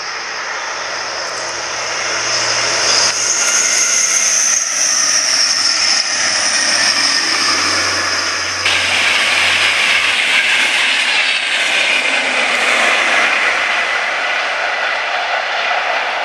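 A train passing at speed on the main line: a loud, continuous rush of wheels on rail and air, with a high whine that rises and then falls.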